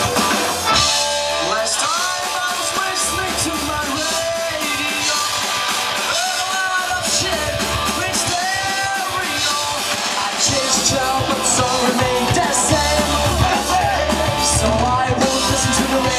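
Punk rock band playing live: shouted, yelled singing over loud drums and cymbals and the band's instruments.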